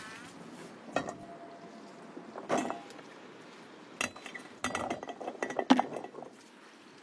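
Cooking pots and utensils knocking and clinking: a few separate knocks, some with a short metallic ring, then a quick run of clattering near the end.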